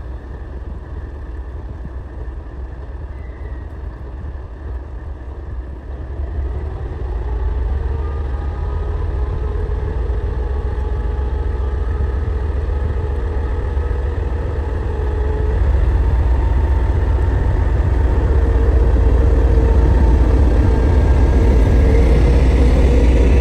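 TEP70 diesel locomotive's engine running with a deep rumble and a steady drone, growing steadily louder as the locomotive draws nearer. The recording is sped up.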